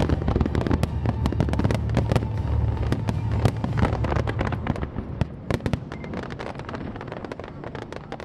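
Fireworks display: rapid bangs and crackling shell bursts over a continuous rumble, dense for the first five seconds and thinning to a few scattered pops and crackles after that.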